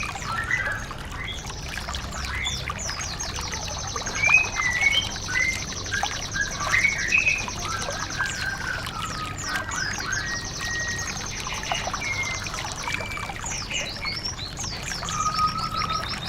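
Small songbirds calling with scattered chirps and long, rapid, high-pitched trills over a steady background of trickling water.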